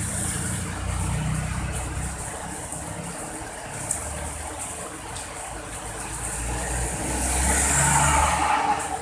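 Steady rain with motor traffic on a wet road: a low engine rumble throughout, and a vehicle passing close with a swell of tyre hiss near the end.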